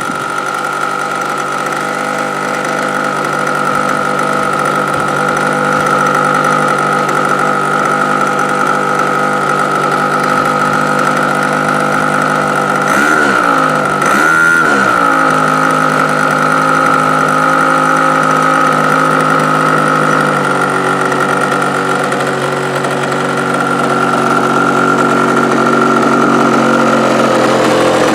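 OS 46 AX two-stroke glow engine of an RC model plane running steadily at speed, with a high whine over the running note. About halfway through the revs drop and pick up again twice in quick succession, then settle at a slightly different speed.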